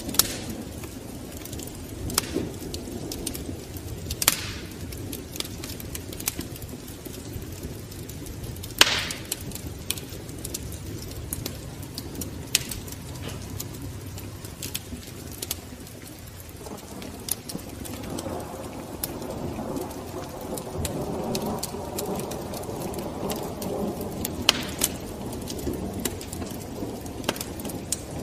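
Wood fire in a fireplace crackling: irregular sharp pops and snaps over a steady low rush of the flames, with a louder pop about nine seconds in.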